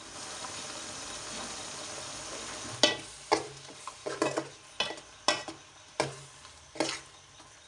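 Grated coconut and spice powders frying in oil in a metal pot, a steady sizzle. From about three seconds in, a steel spoon stirs the mixture, scraping and knocking against the pot about seven times.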